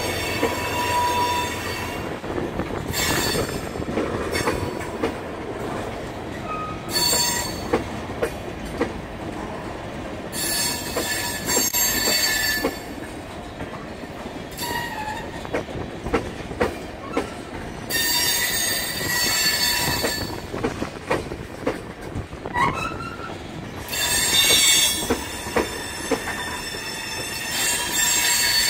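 Freight train tank cars rolling past close by: a steady rumble of steel wheels on rail with scattered clicks over the joints. A high metallic wheel squeal comes and goes in several spells of one to three seconds each.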